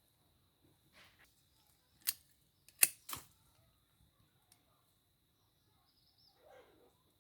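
Three sharp clicks or knocks in quick succession a couple of seconds in, the second the loudest, over a faint steady high-pitched whine.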